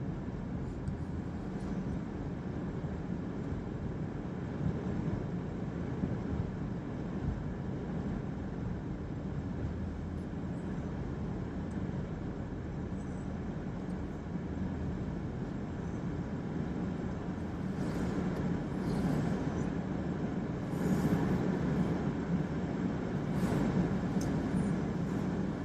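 Car driving on snowy streets, heard from inside the cabin: a steady low hum of engine and tyre noise. It gets somewhat louder in a few swells over the last several seconds.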